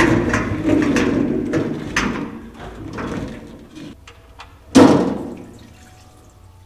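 Irregular knocks and clatter, with one loud bang about five seconds in, like a door being shut.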